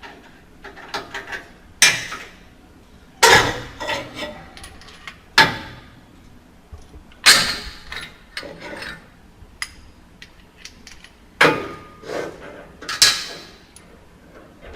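Metal clanks and knocks, about six sharp ringing strikes with smaller clicks between, as tools and steel suspension parts are handled while unbolting a car's rear end.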